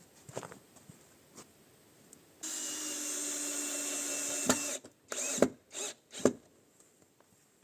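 Power drill running steadily for about two seconds, then stopping, followed by a few sharp knocks.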